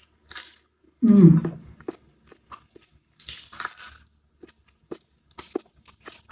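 A person eating close to the microphone: crunching and chewing a mouthful of food, with many sharp wet mouth clicks and smacks and a denser burst of crunching about three seconds in. A short voiced sound about a second in.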